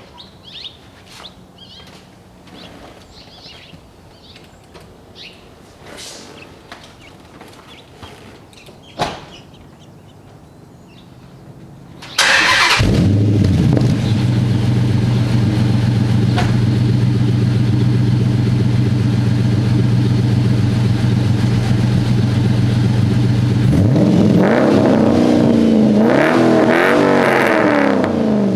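Faint clicks and knocks, then about twelve seconds in the 2010 Dodge Challenger SRT8's 6.1-litre Hemi V8 cranks and fires, settling into a loud steady idle through its exhaust. Near the end it is blipped several times, the pitch rising and falling with each rev.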